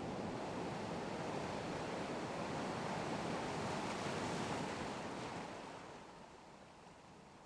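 Steady rushing noise of wind and sea waves, fading down about five seconds in.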